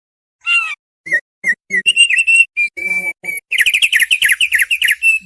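Thick-billed heleia (opior paruh tebal) singing: a string of clear whistled notes starting about half a second in, turning into a fast run of notes about three and a half seconds in.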